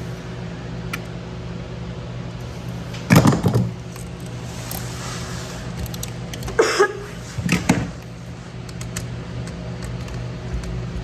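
Brief clunks and rattles of tools and parts being handled, one about three seconds in and two more around seven seconds in, the middle one with a short squeak, over a steady low electrical hum.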